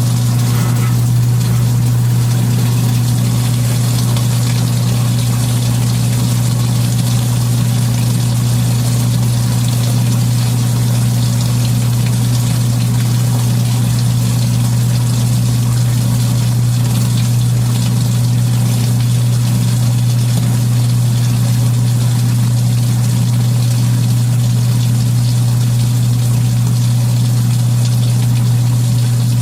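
Kenmore belt-drive portable washing machine running through its cycle: a steady low hum from the motor and drive, with an even hiss over it.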